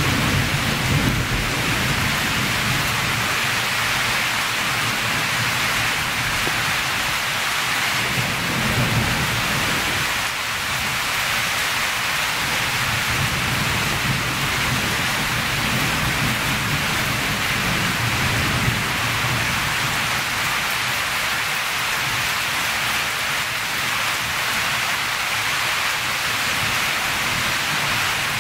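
Heavy rain falling steadily on subtropical forest in a storm, a continuous hiss, with low rumbles swelling up a few times underneath.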